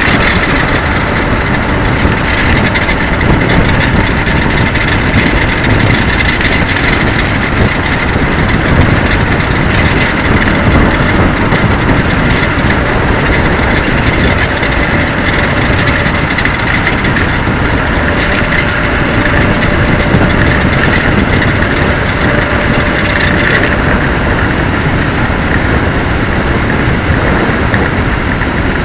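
A small 150cc motorcycle engine running steadily, mixed with dense wind and road noise.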